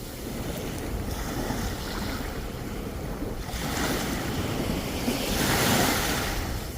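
Sea waves breaking on the shore, one wave swelling in and washing up loudest about five to six seconds in, with wind rumbling on the microphone.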